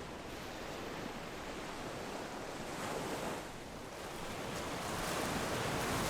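Ocean surf washing on the shore. One wave swells about three seconds in, and another builds toward the end.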